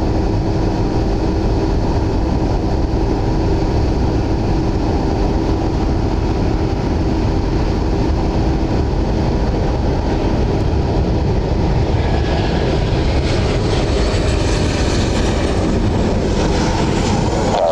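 Jet airliner on short final, its engines a steady heavy rumble. A higher whine builds and bends in pitch over the last few seconds as the aircraft passes close by.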